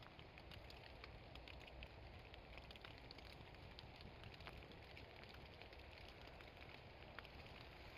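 Rain falling through a woodland canopy: a faint steady patter with many scattered drips ticking on leaves.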